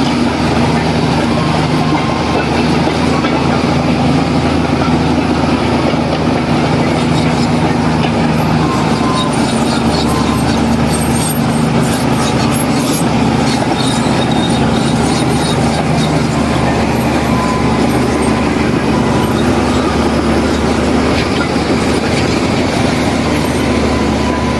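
Heavy diesel engine of earthmoving machinery, running steadily at a constant pitch.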